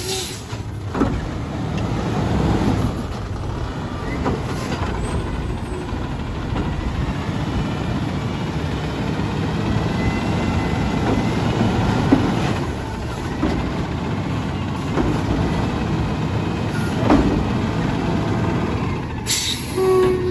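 Autocar ACX garbage truck's diesel engine running steadily, with a few knocks along the way. Near the end comes a sharp hiss of air brakes.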